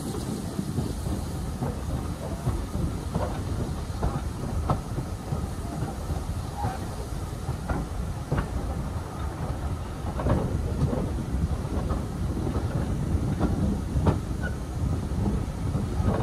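Passenger carriage of a steam-hauled train running along the track: a steady low rumble with scattered clicks of the wheels over the rail joints.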